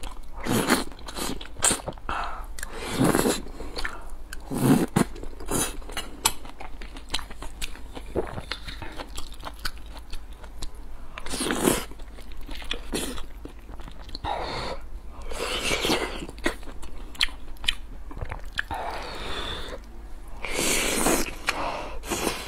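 Close-miked wet chewing and lip smacking as a person eats big mouthfuls of soft tomato and scrambled egg with braised eggplant, with irregular sharp mouth clicks and short smacks throughout.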